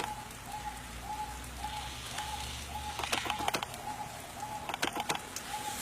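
A bird calling a short, even note over and over, nearly twice a second, with a few sharp clicks in between.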